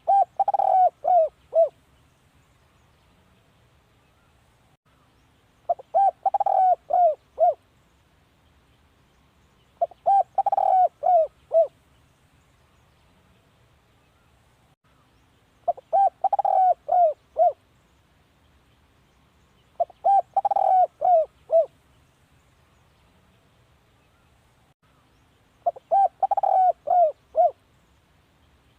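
Spotted dove cooing: a phrase of four or five coos, repeated six times at intervals of about four to six seconds.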